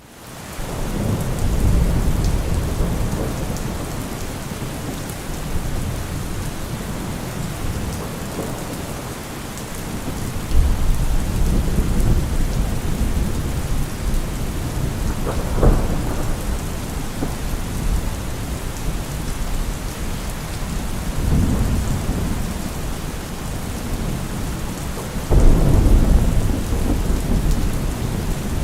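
Thunderstorm: steady heavy rain with rolling rumbles of thunder, several swells of low rumble and one sharp crack of thunder about halfway through.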